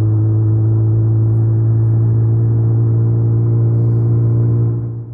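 2019 Suzuki Hayabusa's 1340 cc inline-four engine running at a steady cruise, a constant low drone. It eases off briefly near the end.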